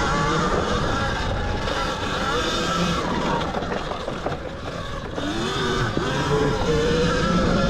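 A Zero XB electric dirt bike being ridden through sand: the electric motor's whine glides up and down with the throttle over a steady rush of wind and tyre noise.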